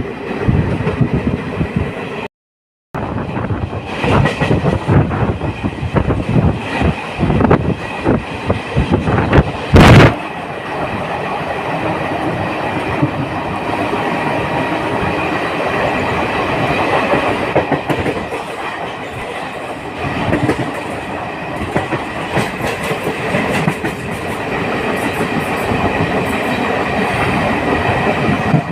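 Passenger train running on the track, its wheels clattering with irregular knocks over the rail joints. There is a loud burst about ten seconds in, and after it a steadier running rumble. The sound drops out completely for about half a second near the start.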